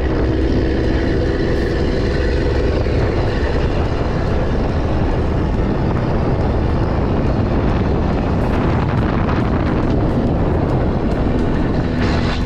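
A vehicle on the move: the engine runs steadily under a loud, even rush of road and wind noise.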